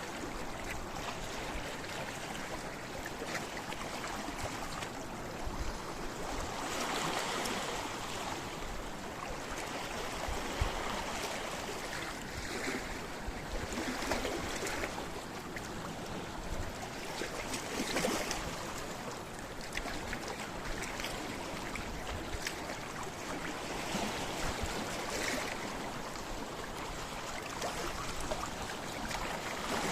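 Sea waves washing and splashing against a rocky shore, a continuous wash of surf that swells every few seconds with brief splashes.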